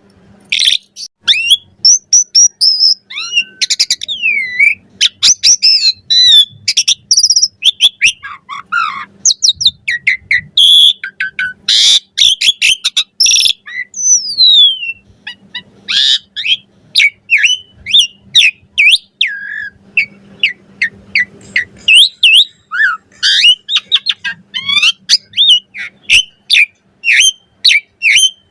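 Asian pied starling singing a fast, varied song of sharp chirps, clicks and whistles, with rising and falling slurred notes, and hardly a pause.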